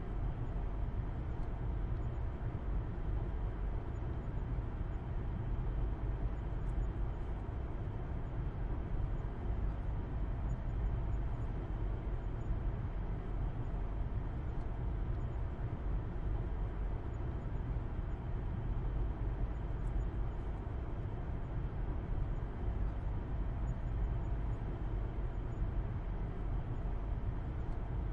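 Steady low road and engine rumble of a car being driven at a constant speed, heard from inside the cabin.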